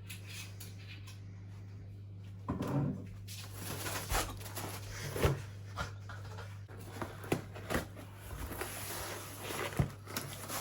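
Irregular knocks and clicks of things being handled, set down and opened or shut, over a steady low hum.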